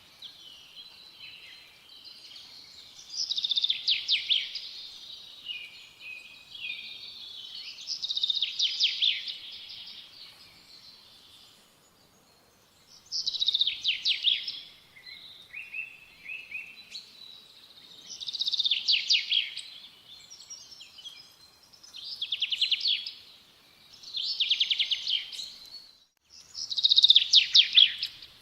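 A songbird singing, repeating a loud trilled phrase about every four to five seconds, with softer chirps in between.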